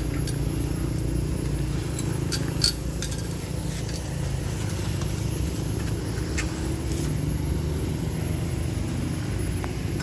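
Steady low rumble with a few light clicks, the sharpest about two and a half seconds in.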